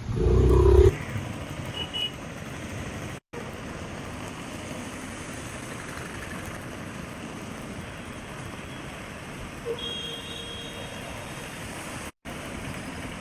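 Road traffic: a vehicle sounds loudly in the first second, then a steady wash of outdoor noise, with a short faint high tone about ten seconds in.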